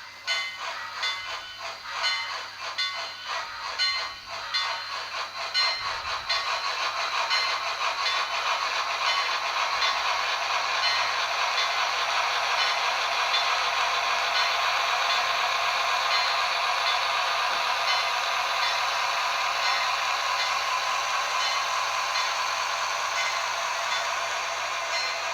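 Sound decoder in an HO-scale Bachmann Shay geared steam locomotive model playing steam locomotive sounds through its small speaker: rhythmic chuffing at first, giving way about seven seconds in to a steady hissing sound.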